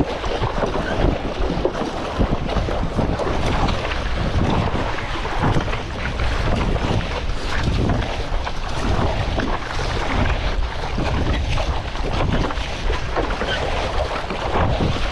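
Strong wind buffeting the microphone over choppy sea water splashing and slapping, with frequent irregular splashes, while a stand-up paddleboard is paddled hard.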